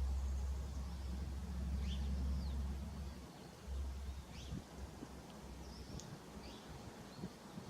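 Small birds chirping, scattered short high calls throughout, over a low rumble that fades out about three to four seconds in.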